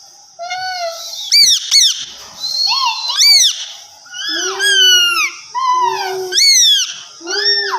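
Ringneck parrot calling: a string of about eight shrill calls that rise and fall in pitch, some short and sharp, others drawn out.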